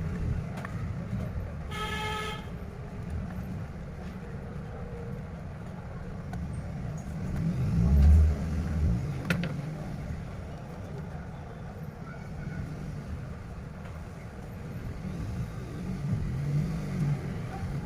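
Steady road-traffic rumble with a short vehicle horn toot about two seconds in and a louder vehicle passing around the middle.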